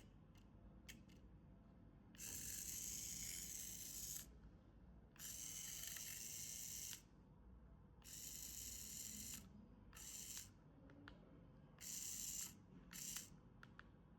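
Toy packaging being opened: about six bursts of high, hissing rustle or tearing, each lasting from a fraction of a second to about two seconds, with small clicks in between.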